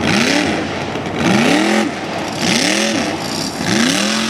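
Big-block mega truck engine revving hard in repeated bursts, about four times, its pitch climbing and dropping on each blip, with a rush of noise from the spinning tyres on each rev.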